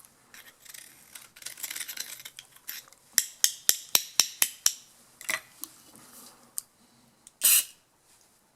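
Small metal carburetor parts and hand tools clinking and clicking on a workbench as the carburetor is taken apart: a quick run of about eight sharp clicks, a single knock, then a short rush of noise near the end.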